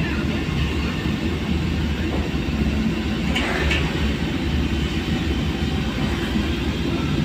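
Steady low rumble of a vehicle travelling along a road, with road and wind noise, and a faint brief hiss about three and a half seconds in.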